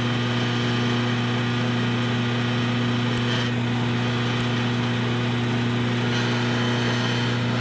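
Steady low electric motor hum running without change, with a fainter higher hum above it and a couple of faint light ticks in the middle.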